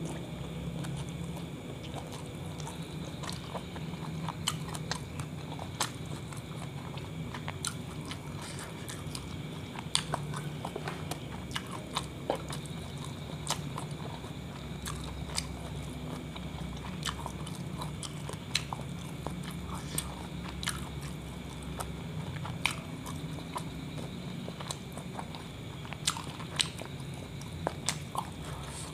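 Close-up biting and chewing of a soft kebab wrap filled with meat, egg, vegetables and sauce, with frequent sharp wet lip smacks and mouth clicks. A steady low hum runs underneath.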